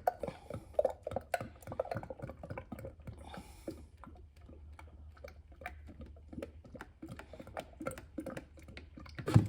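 Motor oil being poured from plastic jugs through a funnel into a diesel engine's fill neck: irregular small clicks, knocks and glugs of jug and funnel handling, busiest in the first couple of seconds, with one louder knock near the end.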